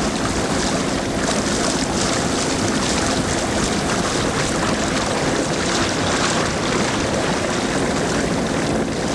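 Motorboat running steadily over floodwater, with wind rushing over the microphone.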